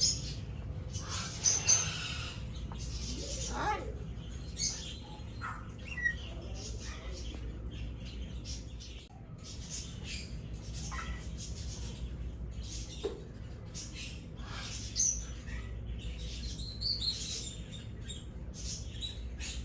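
Parrots chirping and calling in short, scattered bursts, over a steady low hum.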